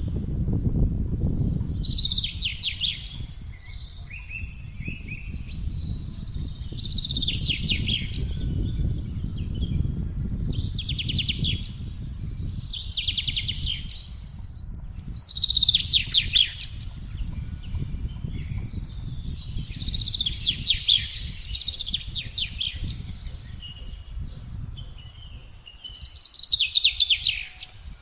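Songbirds singing short trilled phrases, one about every two seconds, over wind blowing with a low, gusting rumble.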